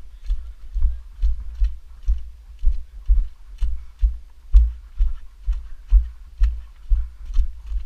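Regular low thumps, about two a second, each with a light click on top, like footsteps or knocks felt through the camera body; no engine is heard running.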